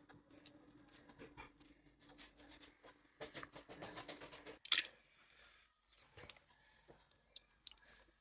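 Kitchen handling noises during food preparation: a run of small clicks, taps and scrapes over a steady low hum. The hum stops just after halfway, together with one short, loud scrape, the loudest sound in the stretch.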